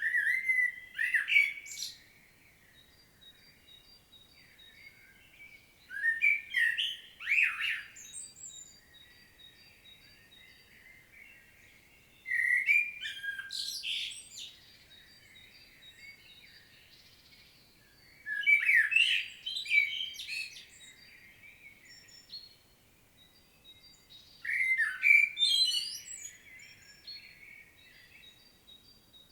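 Common blackbird singing: five separate song phrases, each a short low fluting warble ending in high squeaky twitters, with pauses of about four seconds between them. Faint, rapid high notes of another bird repeat in the pauses.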